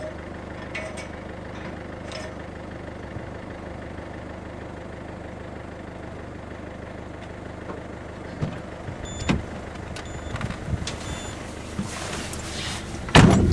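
A car's engine running steadily, heard from inside the cabin. From about eight seconds in there are scattered knocks, and a loud thump comes near the end.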